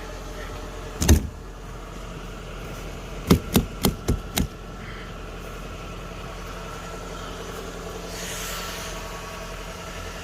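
Car engine idling steadily while it warms up from a cold start, with a sharp clunk about a second in and a quick run of four clunks between three and four and a half seconds in. A brief hiss comes near the end.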